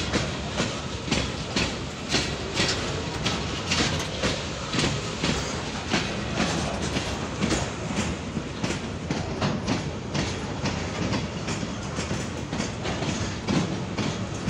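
Freight train of steel hopper wagons rolling past, its wheels clicking over rail joints in a steady clickety-clack of about two to three beats a second over a continuous rumble.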